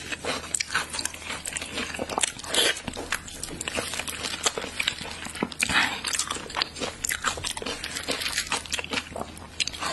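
Close-up chewing of a mouthful of soft Chinese blood sausage: irregular mouth clicks and smacks, several per second.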